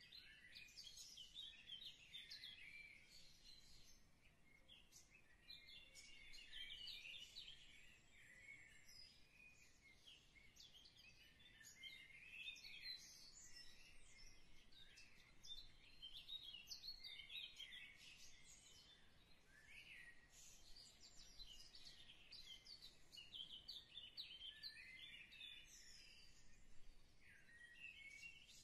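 Several birds chirping faintly, short rising and falling calls overlapping with hardly a break.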